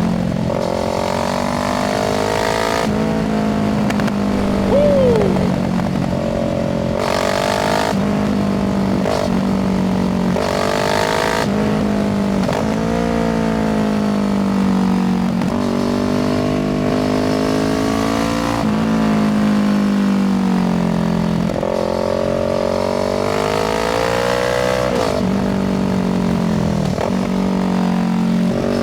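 Kawasaki Z650's parallel-twin engine, fitted with an IXIL exhaust, pulling hard under acceleration. Its pitch climbs for a few seconds at a time and then drops sharply at each gear change, again and again.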